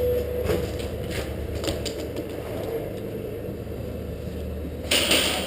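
Nerf bow loosing an arrow: a short, sharp burst of noise near the end, over a steady low rumble with scattered faint clicks of handling.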